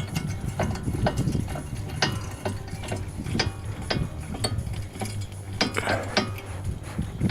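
Metal hand tools clicking and clinking in irregular sharp strokes, two or three a second, over a steady low hum, as a bolt is worked during a brake job.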